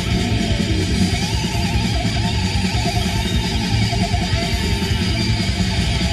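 Heavy metal music: distorted electric guitars playing with wavering, bending lead notes over fast, dense drums, in an instrumental section without vocals.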